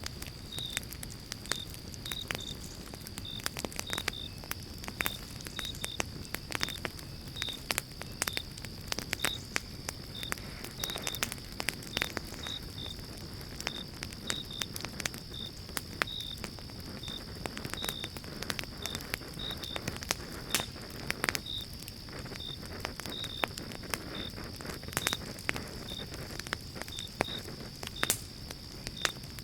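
Pine-log campfire crackling, with frequent irregular pops and snaps over a low rustle of flame. Behind it runs a steady high-pitched hiss and a short high chirp repeating about twice a second.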